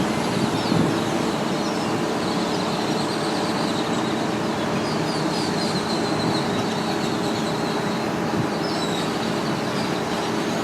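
Steady traffic noise, with a flock of blackbirds calling faintly over it now and then.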